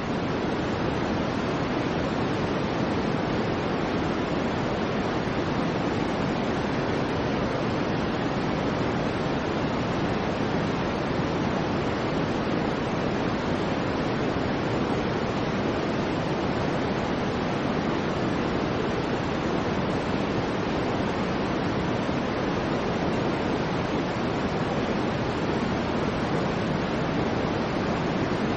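Soft white noise: an even, steady hiss weighted toward the low end, with no high top.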